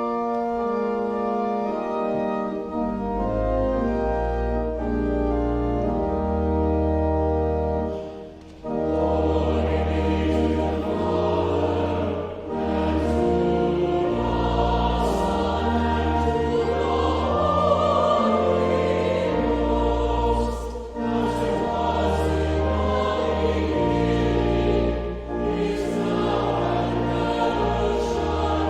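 Church organ playing sustained chords with a deep pedal bass, joined about eight seconds in by a choir singing over it.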